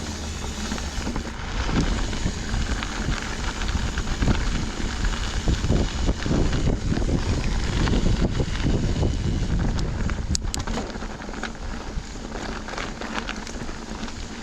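Riding a mountain bike fast down a dirt trail: wind buffets the camera microphone over the rolling tyre noise, with constant small rattles and knocks from the bike over rough ground and a few sharp clicks about ten seconds in.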